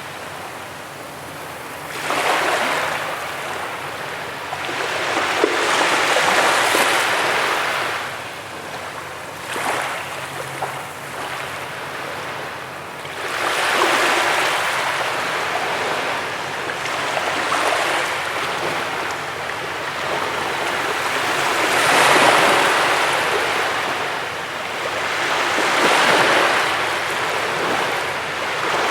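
Ocean surf breaking on a beach: waves of rushing water swell up and fall back roughly every four seconds.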